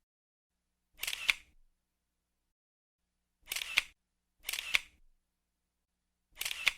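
Camera shutter sound effect: a sharp two-part click-clack, four times at uneven intervals with dead silence between.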